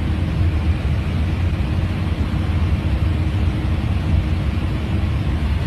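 Steady low engine drone with a constant hum, like a small aircraft's engine heard from inside the cabin.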